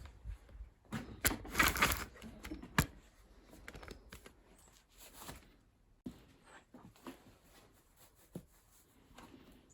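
Small scrap parts from a stripped-down boiler being handled and sorted: a run of clicks, clatter and rustling, busiest in the first few seconds with one sharp knock, then scattered light clicks.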